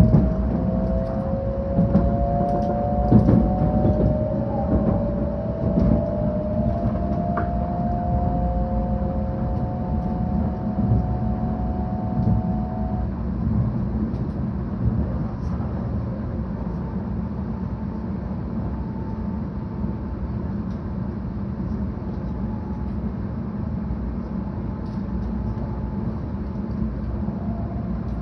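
Cabin sound of a 700 series Shinkansen car under way: a steady low running rumble. Over the first dozen seconds a faint electric motor whine rises slowly in pitch, then cuts out, as the train accelerates.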